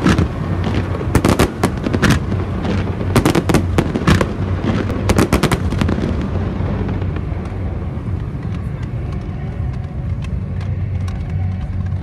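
Fireworks going off: a quick, irregular string of sharp bangs and cracks for about the first six seconds, then a steadier, softer crackling hiss as fountain fireworks spray sparks.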